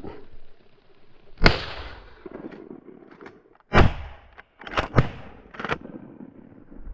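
A series of about five sharp, loud bangs or cracks, with fainter clicks between them; two of the bangs come close together about five seconds in.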